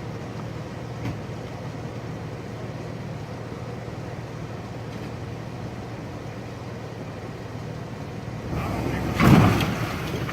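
1995 Chevy K1500 pickup's engine idling steadily, then revving hard for a moment near the end as the truck pulls on the tow chain to free a stuck truck.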